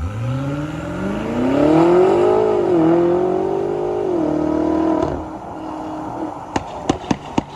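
A motor revving up in pitch over about two seconds and holding high with small dips, then cutting off about five seconds in. A run of sharp clicks follows near the end.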